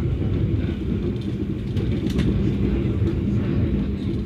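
Passenger train running on the rails: a steady low rumble with a steady hum and a few faint clicks.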